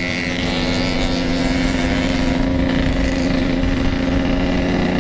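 Two-stroke single-cylinder engine of a Yamaha RX-King motorcycle running at a steady speed, its exhaust note holding an even pitch.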